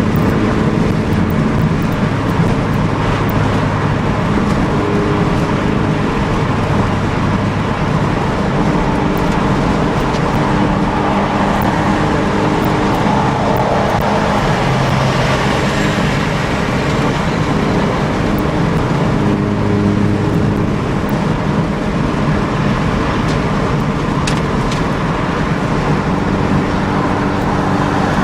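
Car fitted with an aftermarket Works cat-back exhaust running at a steady cruise, heard from inside with the windows open, the exhaust note over road and wind noise.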